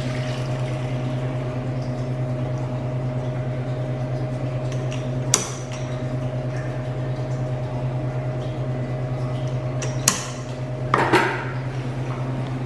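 Steady machine hum, with two sharp clinks of glass milk bottles, about five and ten seconds in, and a short rattle soon after the second.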